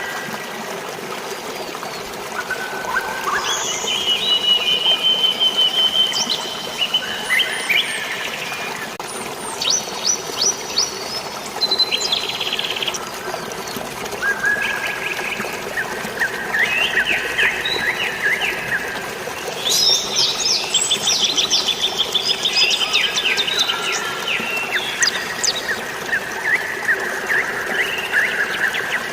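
Several birds singing and calling over a steady bed of flowing water: overlapping whistled phrases and fast trills, with busy bursts of rapid notes about ten seconds in and again about twenty seconds in.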